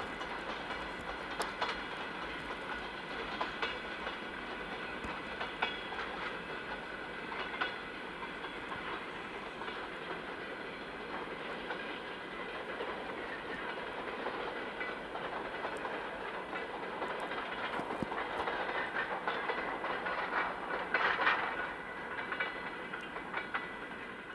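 Freight train of tank cars rolling past, its wheels clicking over rail joints, with a thin, steady high-pitched squeal running through it.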